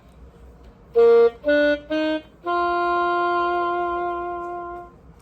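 Yamaha YDS-150 digital saxophone playing on its A4 voice preset: three short notes followed by one long held note that fades out.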